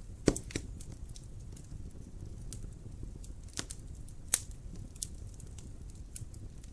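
Wood fire crackling in a fireplace: irregular sharp pops and snaps over a low steady rumble of the flames, with two louder pops, one just after the start and one a little past the middle.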